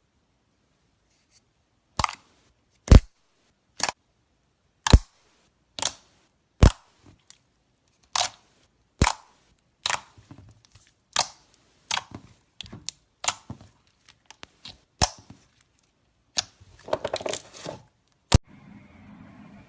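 Slime being squeezed and popped: sharp pops about once a second, with a quick run of crackling near the end.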